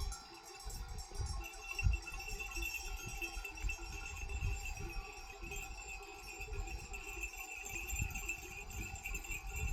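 Bells on a grazing flock of sheep jingling and ringing continuously, over an irregular low rumble.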